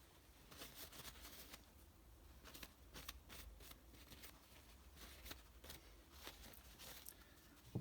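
Near silence: faint scattered clicks and rustles of small parts and a screwdriver being handled on a workbench.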